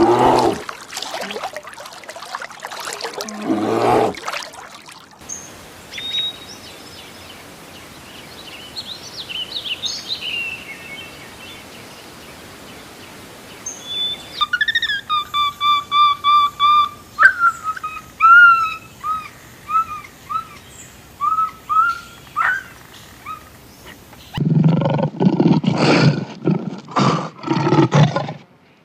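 A run of animal calls. Loud low-pitched calls come at the start and again from about three-quarters of the way in. Between them, birds chirp and sing, ending in a series of short repeated whistled notes.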